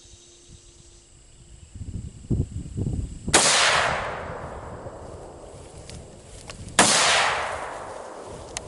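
Two rifle shots from an ATI Omni Hybrid AR-15 in 5.56, about three and a half seconds apart, each followed by a long echo dying away. A low rumbling noise comes just before the first shot.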